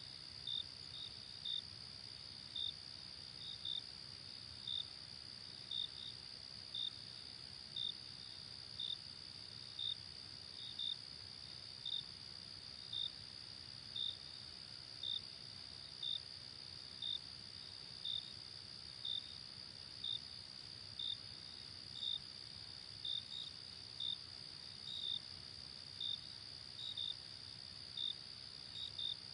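Crickets chirping at night: a steady high trill of many insects, with one louder chirp repeating about once a second, over a faint low hum.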